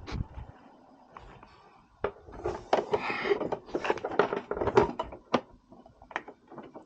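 Handling noise: a quick run of clicks, taps and rattles from small hard parts being fiddled with, as a drain tube is worked onto a mower's oil drain. It starts about two seconds in after a quiet moment, with a few scattered clicks near the end.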